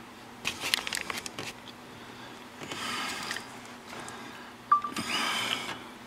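Hands working a plastic wiring-harness connector loose: a quick cluster of light clicks and knocks, then short bursts of rustling, one of them starting with a sharp click near the end.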